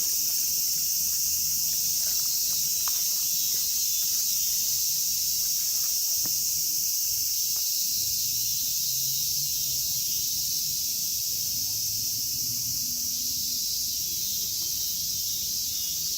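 A chorus of Japanese cicadas singing: a dense, steady, high-pitched buzzing that does not break, easing slightly near the end. A few faint clicks and a low hum sit underneath.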